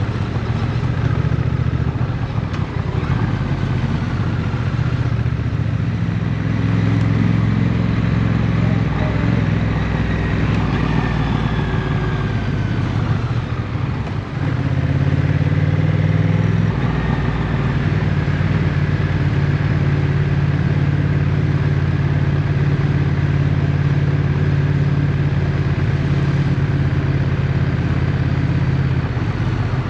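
Motorcycle engine running at low, steady revs while riding. About halfway through there is a brief drop in level, after which the engine settles at a slightly different pitch.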